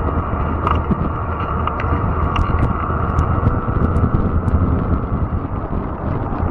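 Fat-tire e-bike rolling along a trail: a steady rumble of tyres and wind on the microphone, with a faint steady whine and scattered sharp ticks and snaps.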